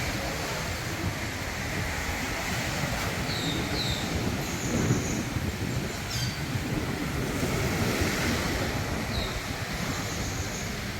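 Steady rush of wind and sea with a low rumble, the wind buffeting the microphone.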